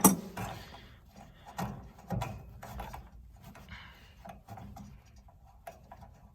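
Handling and tool noise from work on a gas water heater's burner assembly: a sharp click at the start, then scattered knocks and rubbing as fittings are worked loose.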